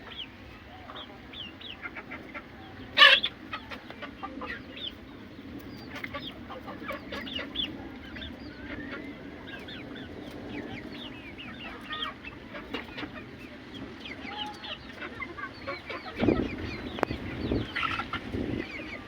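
Chickens, Aseel fowl, clucking with many short calls throughout. There is one short, loud sound about three seconds in, and a few low thuds near the end.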